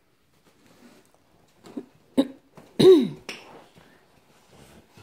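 A person's short cough-like vocal sound about three seconds in, pitched and falling, with a couple of sharp knocks just before and after it.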